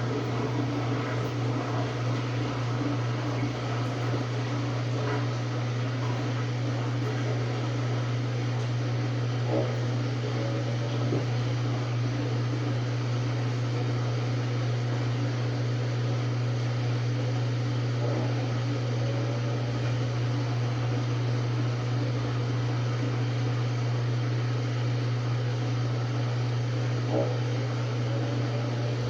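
Samsung WA45T3200AW top-load impeller washer running with a steady low hum, with a few faint knocks.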